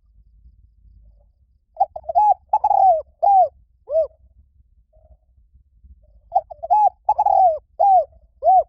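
Spotted dove cooing: two phrases of about five short coos each, a few seconds apart, each coo arching up and falling away in pitch.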